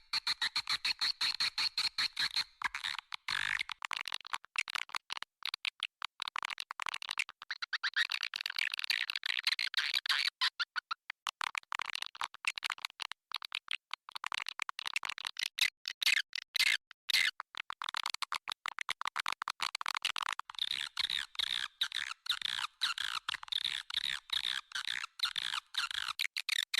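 Swiftlet lure-call recording: dense, unbroken twittering of white-nest swiftlets, rapid clicks and chirps piled on top of each other, with no low end. It is played in a swiftlet house to draw wild swiftlets in to roost and nest.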